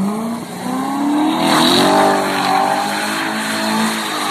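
A performance car accelerating hard at full throttle, its exhaust note climbing in pitch and dropping back at gear changes. The exhaust is loudest about two seconds in.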